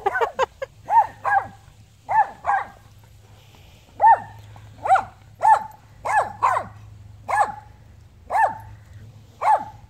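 A dog barking repeatedly during play, about fifteen short barks in quick clusters, with a brief pause a few seconds in.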